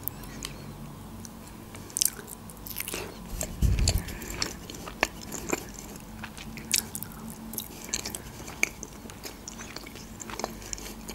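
Close-miked mouth sounds of a woman chewing soft çiğ köfte: scattered wet smacks and clicks, with a dull low thump a little over a third of the way in.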